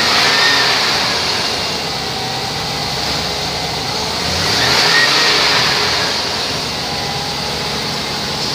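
2005 Chevrolet Tahoe's V8 engine idling, blipped up twice: once right at the start and again about five seconds in, each time settling back to a steady idle.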